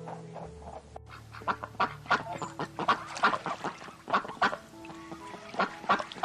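Waterfowl calling over and over in many short, rapid calls, over light background music.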